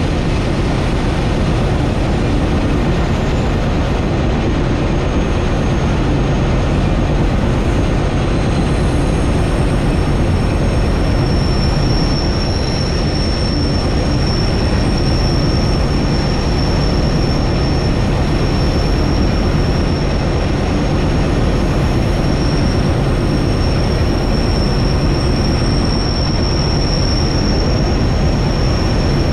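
Four diesel locomotives hauling a loaded coal train, heard from a camera mounted on the outside of a locomotive: a steady heavy rumble of engines, wheels and rushing air. About a third of the way in, a steady high-pitched wheel squeal comes in and holds as the train rounds a curve.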